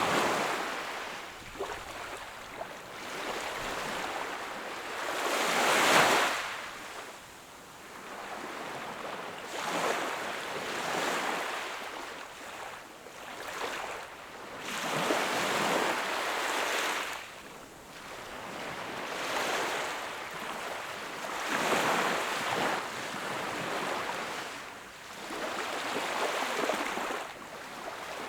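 Sea waves breaking and washing onto the shore. Each wave swells and falls back every two to four seconds, and the loudest surge comes about six seconds in.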